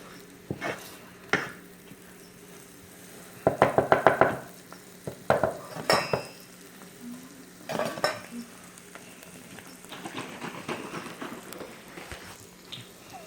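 A utensil stirring and scraping in a pan of melted butter, garlic and Parmesan, with a soft sizzle underneath. There are bursts of quick knocking and scraping strokes against the pan, the loudest a few seconds in and others around the middle, with a brief metallic clink among them.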